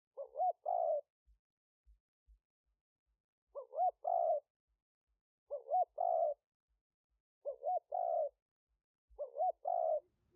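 Spotted dove cooing: five similar phrases, each a couple of short notes running into a longer coo, repeated about every two seconds. This is the decoy call used to lure wild spotted doves.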